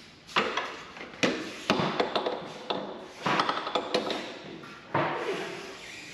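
Several sharp metal clanks and taps, each ringing briefly, from tools and metal parts being handled and set down.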